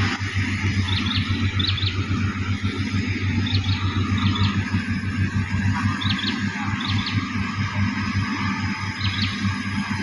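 A heavy engine running steadily with a low, even hum, and short high bird chirps every second or two.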